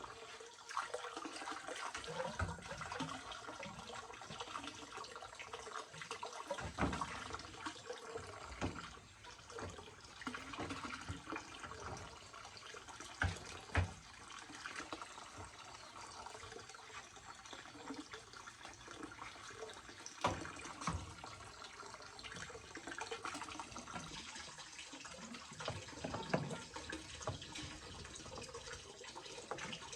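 Water running steadily, with scattered knocks and clatter; the loudest knocks come about halfway through.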